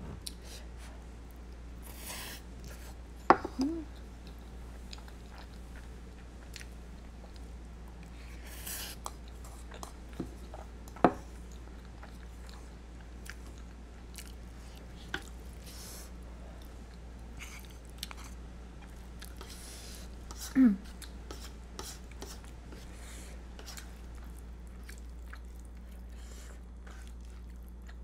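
Close-miked chewing of spaghetti carbonara, with a few short slurps and scattered sharp clicks.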